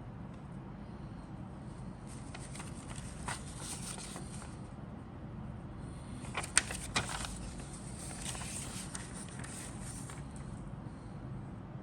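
Rustling and handling of the kit's parts and papers, with a few sharp clicks, the loudest about six and a half seconds in, over a steady low hum.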